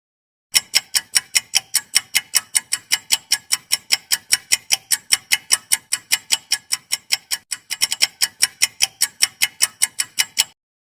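Ticking clock sound effect used as a quiz countdown timer: a fast, even run of sharp ticks, about five a second, that starts about half a second in and stops abruptly shortly before the end, with a brief hitch about three-quarters through.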